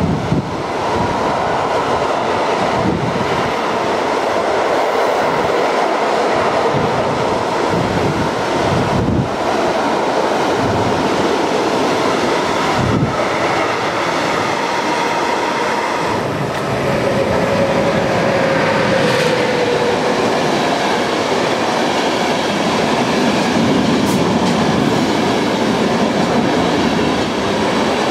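A long freight train of lorry trailers on low wagons rolling past close by, its wheels clacking over the rail joints. A passenger train's coaches are rolling by near the end, with a short whining tone about two-thirds of the way through.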